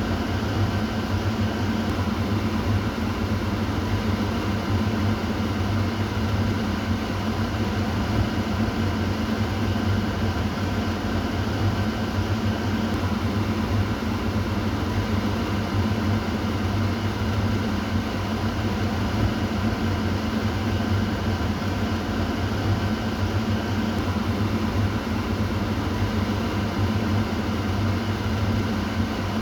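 Kitchen exhaust fan running steadily: an even hum with a low drone and a broad airy hiss, unchanging throughout.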